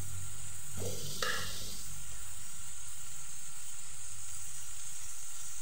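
Chicken pieces in spiced masala frying in a stainless-steel pot, with a steady sizzle. Two short clicks come about a second in.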